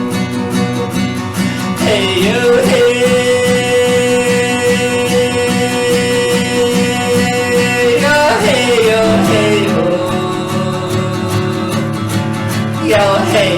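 Song: a voice singing long held notes over a steadily strummed acoustic guitar.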